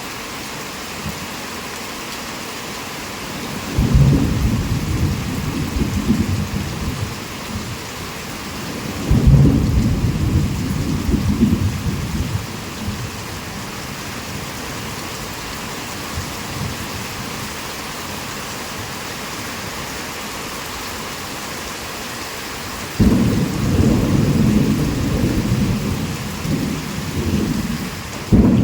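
Heavy rain falling in a steady hiss, with rolls of thunder that break in suddenly about four seconds in, again about nine seconds in, and once more near the end, each rumbling on for several seconds.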